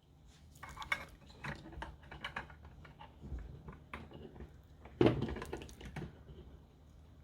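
Small hard parts clicking and clattering as the solder-wire spool and its holder cylinder are handled and fitted onto the soldering station's stand, with a louder knock about five seconds in.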